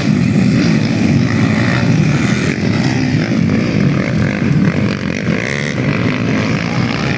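Underbone motorcycle engines running and revving, the pitch rising and falling.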